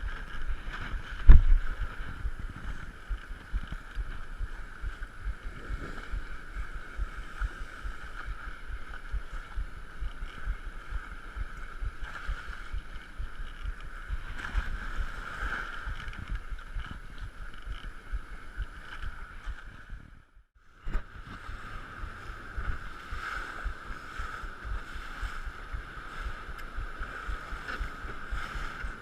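Wind buffeting the microphone on a small fishing boat in rough, windy sea, a constant low rumble over a steady mid-pitched hum. A sharp knock comes about a second in, and the sound drops out completely for a moment about two-thirds of the way through.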